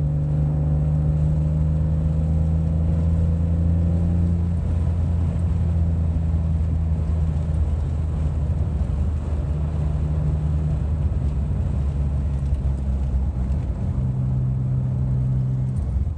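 Car engine running at moderate speed, heard from inside the cabin with road and tyre noise; its note climbs gently over the first few seconds as the car gathers speed, then changes again near the end as it slows.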